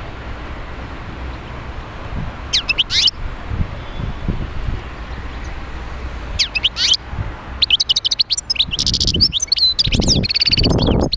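Goldfinch singing: two short chirping phrases, then from about two-thirds through a fast, continuous twittering song. A low rumble runs underneath.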